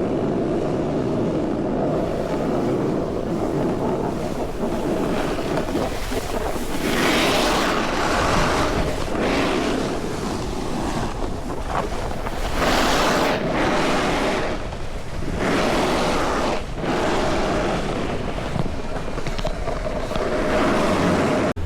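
Wind rushing over the camera microphone while riding a snowboard, with several louder surges of hiss.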